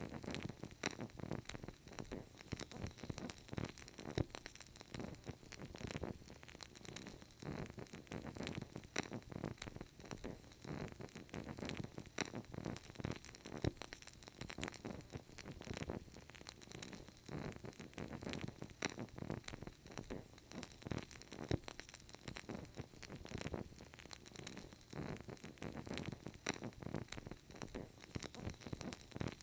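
Burning candle crackling softly and continuously, with many small irregular pops and sputters over a faint hiss.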